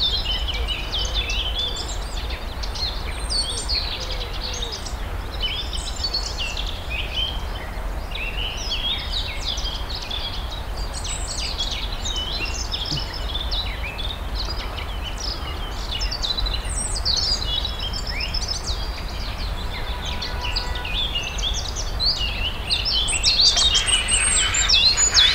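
Songbirds singing together, many short chirps and trills overlapping, with a steady low rumble beneath.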